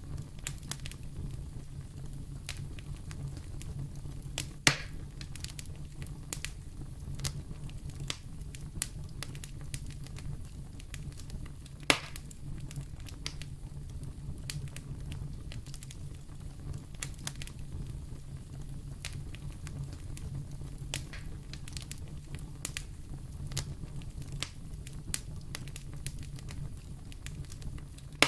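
Wood fire burning in a fireplace, crackling steadily over a low rumble, with scattered small snaps and two louder pops, about five and twelve seconds in.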